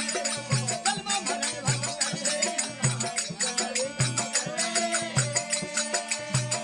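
Rajasthani folk bhajan music: low drum strokes a little under once a second under fast, continuous jingling percussion, with a wavering melody line over them.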